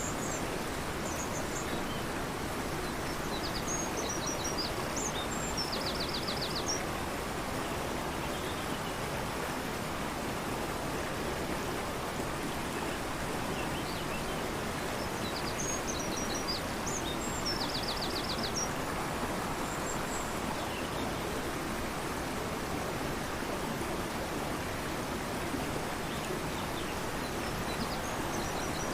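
Rushing river water making a steady, even rush. Over it a songbird sings a short high phrase ending in a fast trill, three times, about every twelve seconds.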